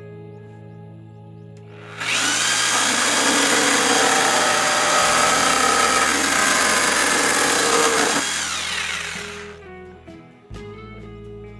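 Stanley SJ60 600-watt electric jigsaw cutting a workpiece. It starts sharply about two seconds in, runs for about seven seconds, then tails off as it stops. Soft background music plays before and after it.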